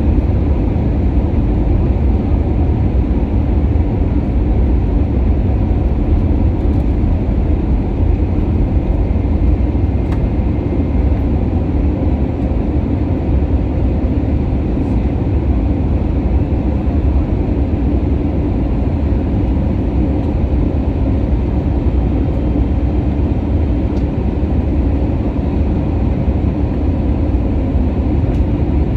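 Steady low rumble of an Airbus A320neo heard from inside the passenger cabin: engine and airflow noise that keeps an even level.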